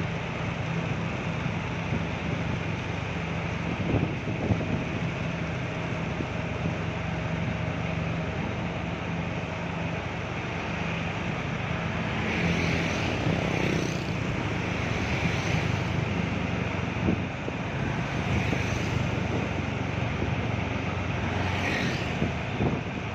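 Loaded sugarcane truck's engine running steadily under a constant noisy rush, with a few brief higher hissing swells in the second half.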